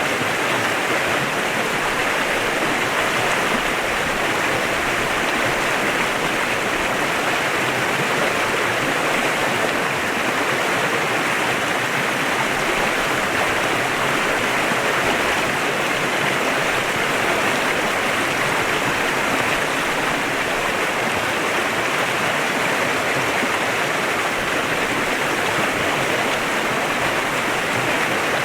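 Clear mountain river flowing steadily over rocks, an even rushing of water.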